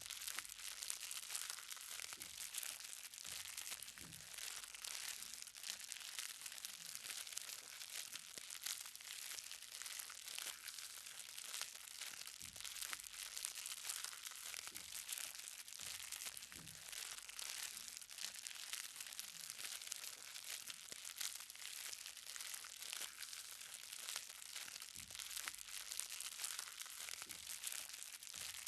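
Light rain: many small drops pattering on the ground in a dense, steady crackle, with a few heavier drops standing out every couple of seconds.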